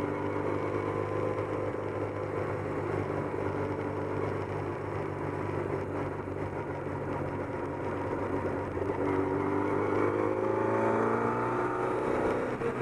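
Austin-Healey Sprite's A-series four-cylinder engine heard from inside the cabin, running steadily at low speed, then rising in pitch and getting louder as the car accelerates from about nine seconds in.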